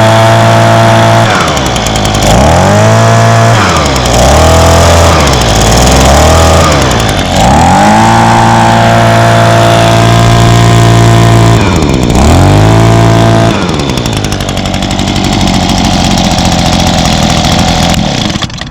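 A 2011 Echo PB265L backpack leaf blower's 25.4cc two-stroke engine running at high throttle, its pitch dropping and climbing back about five times as the throttle is let off and reopened. About 13 seconds in it settles to a lower, rougher idle, and it shuts off near the end.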